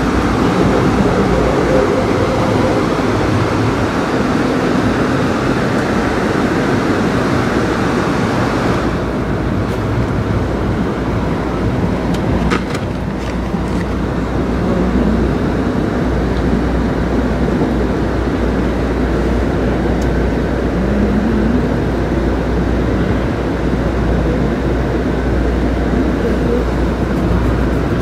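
Amtrak California Zephyr passenger train running at speed: a loud, steady rumble and rush of the car rolling on the rails. The higher hiss drops away suddenly about nine seconds in, and a few faint clicks come a few seconds later.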